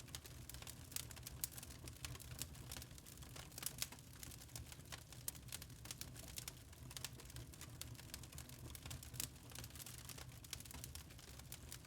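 Log fire in a fireplace crackling: irregular sharp pops and snaps of burning wood, several a second, over a low steady rumble.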